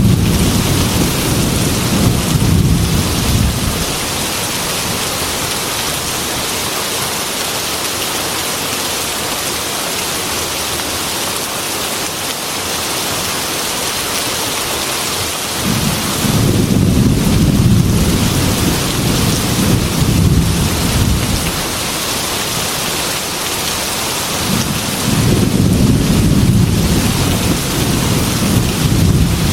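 Heavy rain pouring steadily on a glass window, with long rolls of thunder rumbling at the start, again for several seconds past the middle, and once more near the end.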